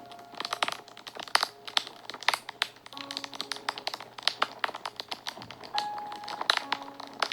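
Wood fire crackling, with irregular sharp pops and snaps, under soft background music of a few slow held notes.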